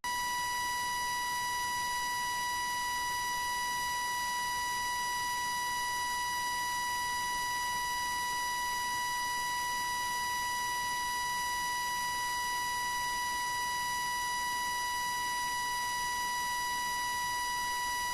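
A continuous electronic beep tone held at one steady pitch, with faint higher overtones. It does not waver in pitch or loudness, and it starts and stops abruptly.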